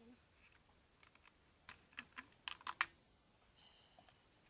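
A quick run of light, sharp clicks and taps about halfway through, with a short soft hiss near the end; no saw is running.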